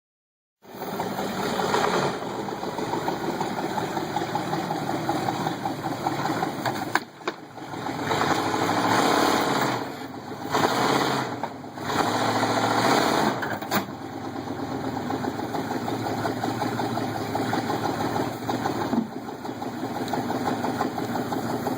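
Off-road crawler truck's engine running and revving in several surges as it climbs, with a short lull about seven seconds in.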